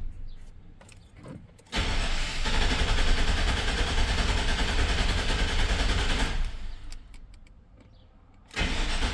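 The 1999 GMC's V8 being cranked over on the starter without firing, in two spells: one of about five seconds, then a second beginning near the end. The cranking sounds even, which the mechanic takes as sounding good, before a relative compression test.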